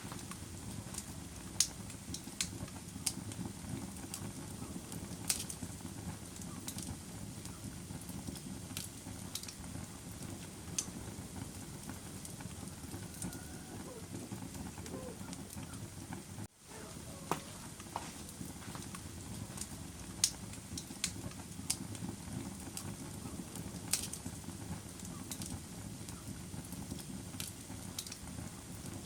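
Wood fire in a fireplace burning with a steady low rush, crackling and popping in sharp irregular snaps. The sound drops out for an instant about halfway through.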